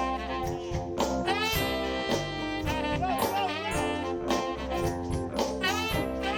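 Live soul band with a horn section playing an instrumental passage: saxophone and brass lines over bass and a steady drum beat.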